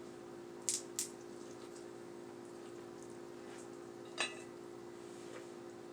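Eating seafood boil: a few short, wet smacks and clicks, two close together about a second in and a louder one about four seconds in, over a faint steady hum.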